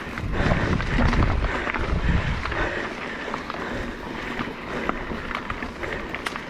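Mountain bike riding down a rough trail: wind buffeting the microphone over the rumble and crunch of tyres on dirt and rocks, with small knocks and rattles throughout. The rumble is heaviest in the first couple of seconds.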